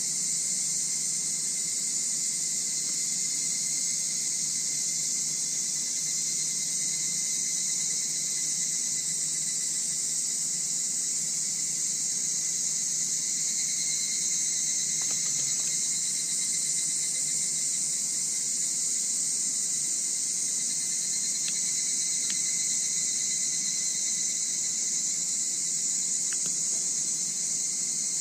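Steady high-pitched chorus of insects chirping at night, unbroken throughout, with a few faint ticks in the second half.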